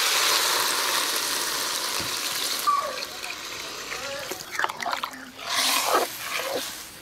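Taro stems and spice paste sizzling in hot oil in a metal wok. The sizzle dies away about three seconds in as water is poured in from a bowl, followed by splashing and a ladle stirring the watery curry.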